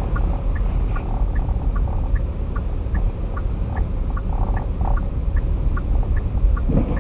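Steady low road and engine rumble inside a car's cabin, driving slowly over snowy roads, with a light, evenly spaced ticking about three times a second.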